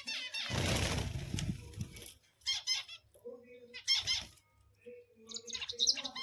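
Zebra finches calling: groups of short, high, squeaky calls, with a second or so of rustling noise near the start.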